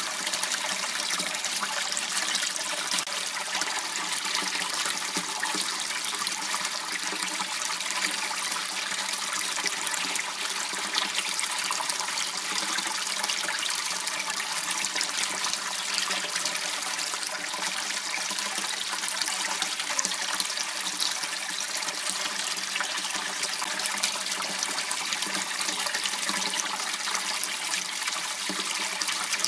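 Water running and trickling steadily in a small waterway, a continuous even rush.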